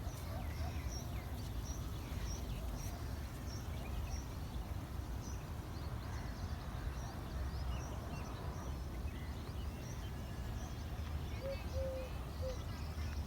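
Small birds chirping: a short high call repeated about twice a second, with other scattered bird calls, over a low steady rumble. Near the end a few low hooting notes join in.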